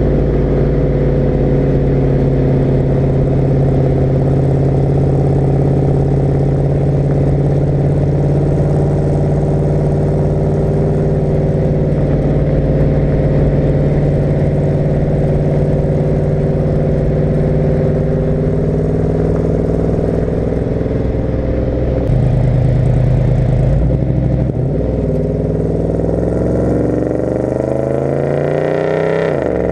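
1972 Chevy C20's big-block V8 exhaust at a steady cruise. About 25 s in the engine note drops, then climbs steadily as the truck accelerates, and dips again just before the end.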